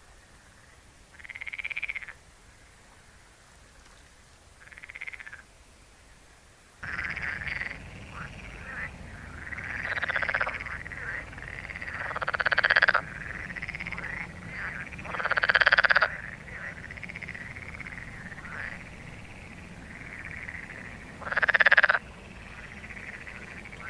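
Frogs croaking: a few separate calls at first, then about seven seconds in a dense chorus of many frogs sets in over a louder background hum, with several loud close calls standing out.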